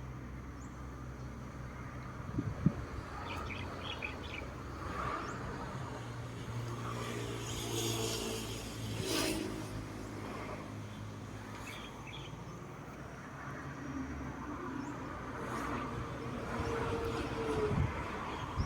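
A vehicle engine running with a steady low hum that shifts slowly, with a few short bird chirps and a sharp knock about two and a half seconds in.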